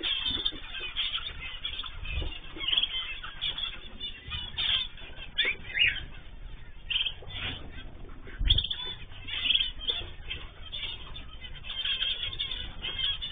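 Mixed cage birds (cockatiels, zebra finches and canaries) chirping and calling over one another without pause, with wings flapping. There are dull thumps about two seconds in and again about eight and a half seconds in.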